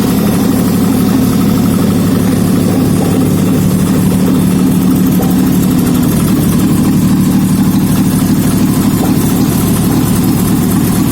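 Daihatsu KF-VE 660 cc three-cylinder petrol engine idling steadily on a test stand, its speed even throughout.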